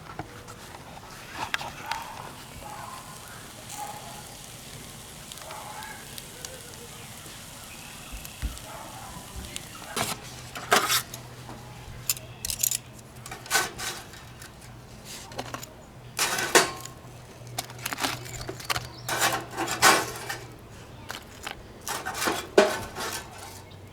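Scattered metallic clinks and clattering of cookware and utensils being handled, sparse at first and frequent from about ten seconds in, when a steady low hum also starts.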